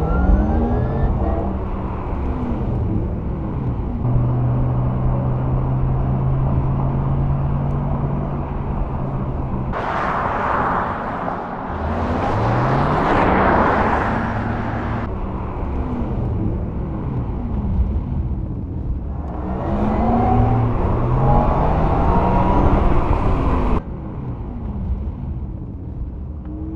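Porsche Taycan Turbo S electric sports car driving, its electric drive whine rising and falling in pitch, with two passes of loud tyre and wind rush.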